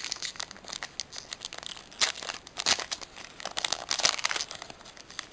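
Foil booster-pack wrapper crinkling and tearing as the pack is opened by hand, in irregular rustling bursts.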